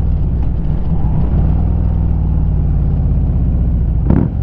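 Harley-Davidson Street Glide's 96-cubic-inch Twin Cam V-twin running steadily through a Rinehart 2-into-1 single-side exhaust, with a brief sharp bump about four seconds in.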